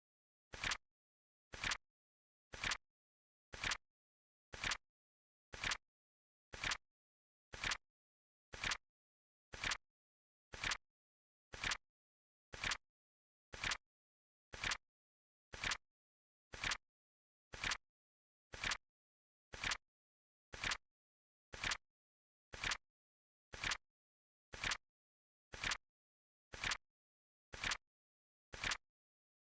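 Flip clock sound effect: a short, sharp click once every second, steady and evenly spaced, as the seconds flip over.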